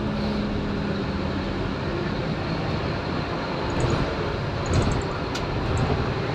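Scania K230UB single-deck bus under way, its five-cylinder diesel engine running steadily. A few light rattles and clicks come between about four and six seconds in, with one sharp knock.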